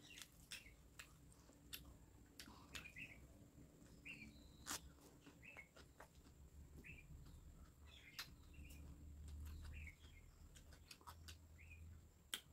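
Faint eating sounds: wet clicks and smacks of chewing as a mouthful of rice is eaten by hand. Short chirps recur about once a second.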